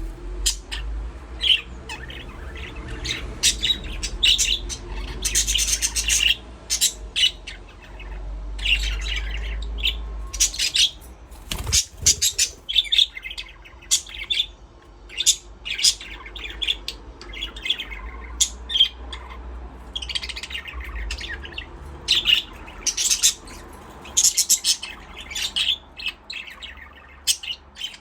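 A flock of budgerigars chirping and chattering continuously, many short overlapping calls with a few harsher squawks. A single sharp click about twelve seconds in, over a low steady hum.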